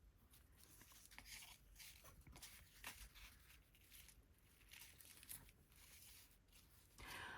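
Near silence with faint rustling and light taps of paper and cardboard being handled.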